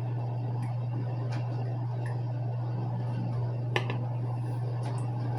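A steady low hum with a few faint, short clicks and taps, the clearest nearly four seconds in.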